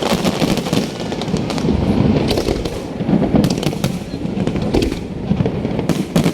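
Aerial fireworks going off in a rapid, continuous barrage of bangs and crackling.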